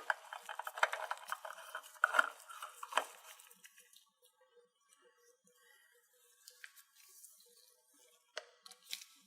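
A new oil filter being handled and spun onto a Kohler Command PRO engine: about three seconds of scraping and clicking, then a few scattered clicks.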